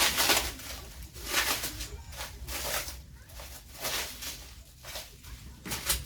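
Packaging being handled and unwrapped: irregular bursts of rustling and crinkling.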